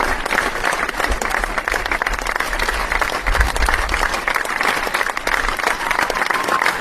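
Crowd applause: many hands clapping in a dense, steady patter with no breaks.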